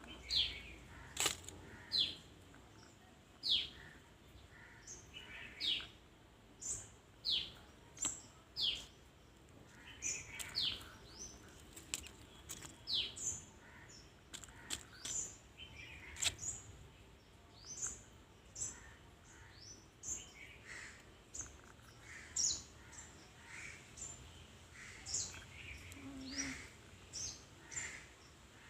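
Small pet birds chirping over and over, each call a short, high, quickly falling note, about one a second, with a few sharp clicks among them.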